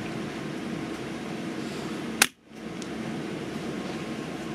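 A single .22 LR rifle shot from a Pedersoli Black Widow, sharp and loud about halfway through, with the sound dropping out for a moment right after it. A steady background hum runs underneath.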